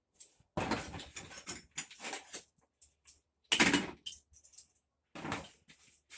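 Irregular clinks, knocks and rattles of tools and metal parts being handled during washer disassembly, with the loudest clank about three and a half seconds in.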